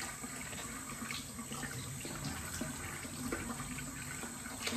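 Water running steadily from a tap into a bathroom sink, with a few faint clicks and splashes.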